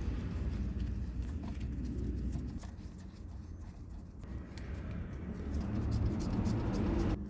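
Close-up workshop handling noise: scattered clicks and scraping over a low rumble, with the scraping building in the second half.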